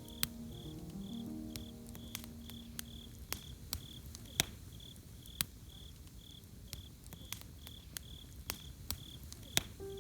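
Campfire crackling with sharp, irregular pops, over a cricket chirping steadily about twice a second. Soft background music notes play in the first few seconds, then fade out.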